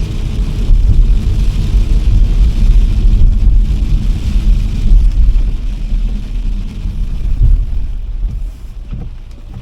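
A car driving on a wet road in the rain: a steady low rumble of road and tyre noise with a hiss of rain and spray over it, getting quieter near the end.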